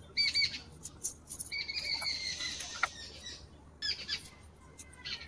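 High squeaky bird-like calls: two short ones at the start, then one held steady for about a second and a half, with brief chirps near the end. Light clicks and scrapes of scraps being swept up by hand sound under them.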